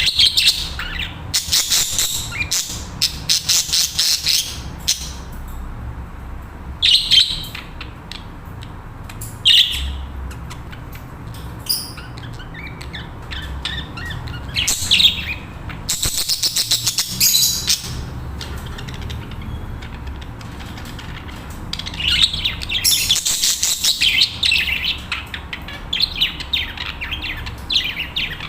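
Budgerigars (pet parakeets) chattering and warbling in fast twittering spells of one to a few seconds, with short pauses between.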